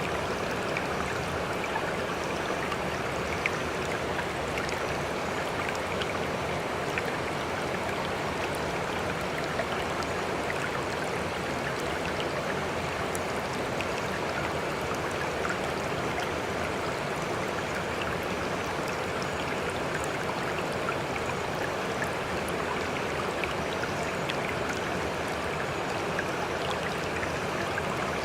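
Sea water rushing and lapping steadily, with scattered small splashes and drips but no rise and fall of separate waves.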